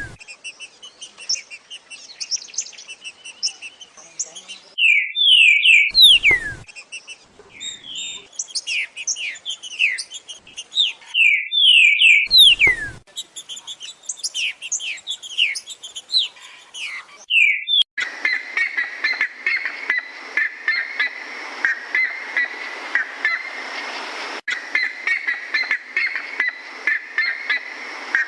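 Songbird singing in repeated phrases of quick downslurred whistled notes, with short pauses between phrases. About 18 seconds in, a different bird takes over with a fast run of short repeated notes over a steady hiss.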